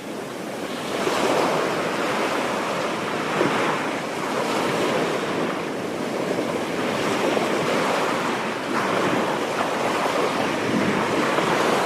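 Ocean surf breaking and washing up the shore, a continuous rush that swells about a second in and again around the middle and latter part, with wind on the microphone.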